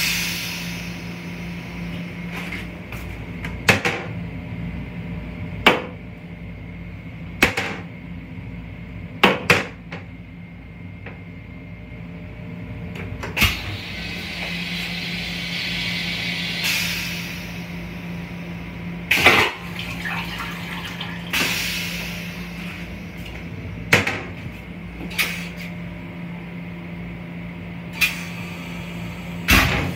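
LIRR M7 electric railcar running, heard from inside its small restroom: a steady low hum with irregular sharp knocks and rattles every few seconds, and a few seconds of hiss midway.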